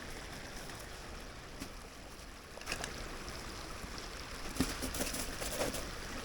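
Steady flowing water of a small stream, with a few light knocks scattered through the second half.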